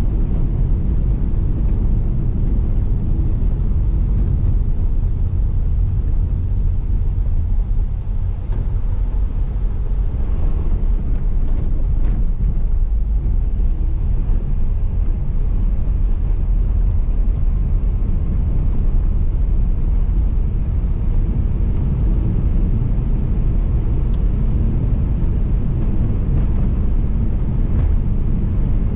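Steady road noise of a car driving in light rain: a low, continuous rumble of tyres and engine, with a few faint clicks now and then.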